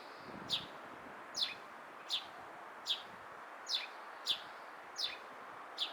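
Eurasian tree sparrow chirping, a single short, falling chirp repeated about eight times at a steady pace of roughly one every three-quarters of a second.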